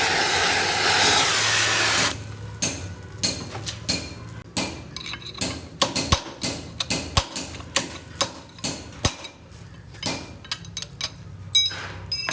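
Hammer striking metal in irregular blows, about two a second, some with a short metallic ring. Before them, a loud steady hiss stops about two seconds in.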